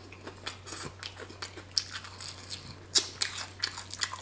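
Biting and chewing a crispy fried chicken wing: irregular crunches and crackles of the fried coating, the sharpest about three seconds in.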